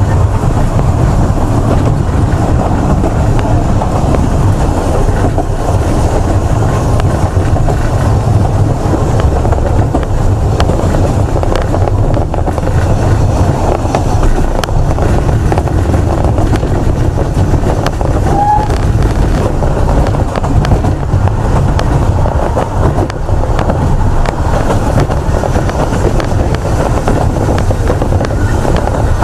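Steady low rumble of a moving narrow-gauge railway carriage, heard from on board: wheels running on the track.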